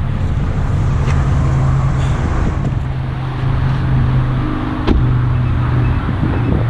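2020 Mazda MX-5 Miata engine idling with a steady low hum; a single sharp click about five seconds in.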